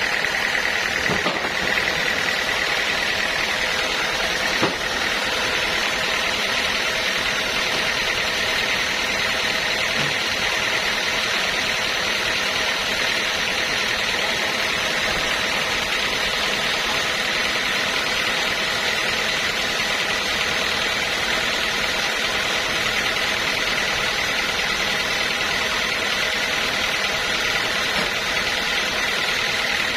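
Sawmill machinery running steadily: an even mechanical noise with a high whine held at one pitch.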